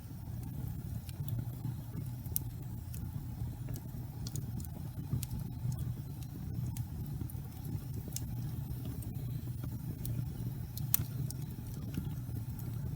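Wood fire burning in a fireplace: a steady low rumble of the flames with scattered sharp crackles and pops of the burning wood, one louder pop about eleven seconds in.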